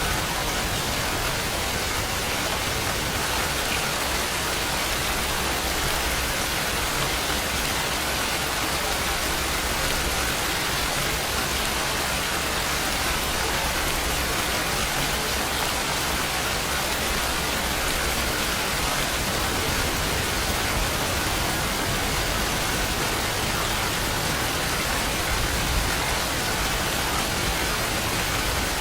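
Steady rain falling without a break, an even hiss with no distinct drops or thunder standing out.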